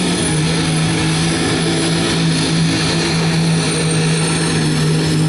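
Diesel truck engine of a twin-turbo 2006 Dodge pickup running flat out under load while pulling a sled, holding one steady, high engine note.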